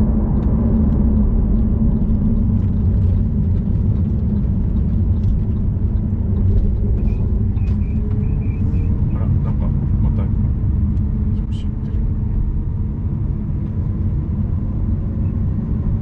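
Lamborghini Aventador's V12 engine running steadily, a low, even drone with no sharp revving.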